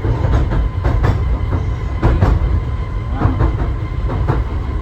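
Southend Pier Railway train running along the pier track, heard from inside the carriage: a steady low rumble with frequent clacks and knocks of the wheels on the rails.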